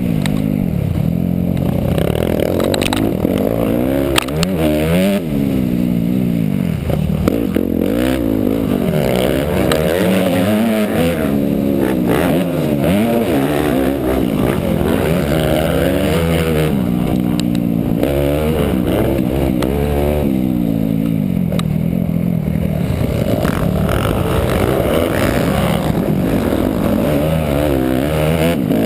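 Motocross bike engine revving up and down over and over as it is ridden around a track, pitch climbing and dropping with each burst of throttle, with a couple of sharp knocks early on.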